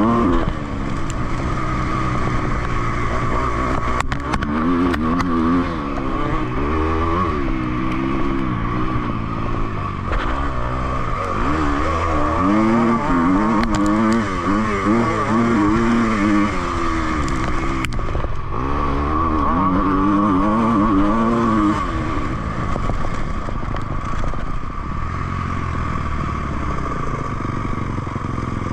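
Two-stroke dirt bike engine revving up and down over and over, the pitch rising and falling in quick swells as the throttle is opened and closed, with a few sharp knocks and clatters along the way.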